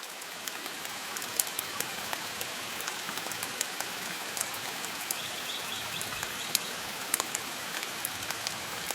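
Steady rain hiss layered with the crackle of a wood fire in a stone fireplace, with sharp pops scattered a few times a second. It fades in over the first second.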